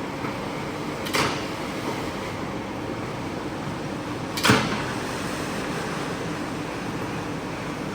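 A steady rushing noise with two sharp knocks, one about a second in and a louder one about three seconds later.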